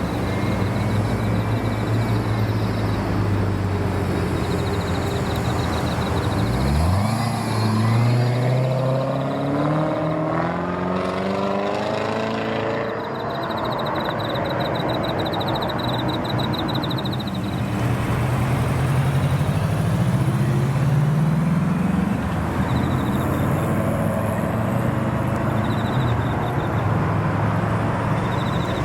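Car engines running, with one car accelerating away about seven seconds in, its engine note climbing steeply. A second engine rises in pitch again about twenty seconds in.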